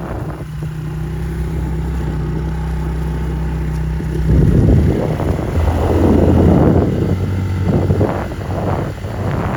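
A motor vehicle's engine running steadily, dropping in pitch about four seconds in, with bursts of rushing noise over it.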